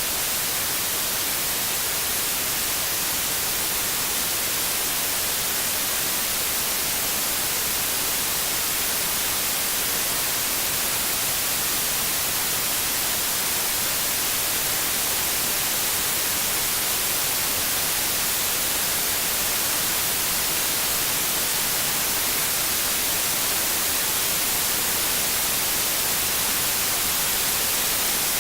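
Steady synthesized white noise: an even, unbroken hiss, strongest in the highs.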